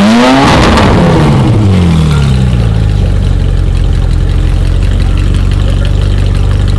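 Ferrari 458 Italia's flat-plane V8 given a sharp rev while stationary, the revs peaking about half a second in and falling away over the next two seconds, then settling into a steady idle. It runs through what the owner of the footage believes is a non-stock exhaust.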